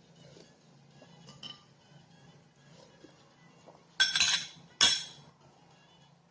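Two sharp clinks of kitchenware, about a second apart, each ringing briefly.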